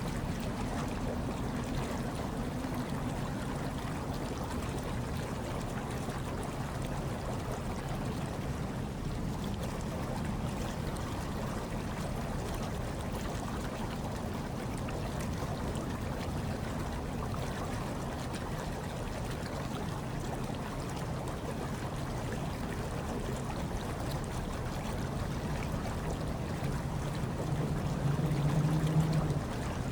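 Hot tub water churning and bubbling steadily, over a low steady hum, with a brief swell in the hum near the end.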